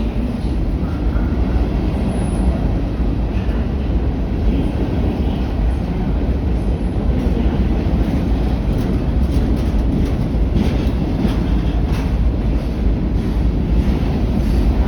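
Train rolling past close by: a steady, heavy rumble of steel wheels on the rails, with a run of sharp clicks over rail joints in the second half.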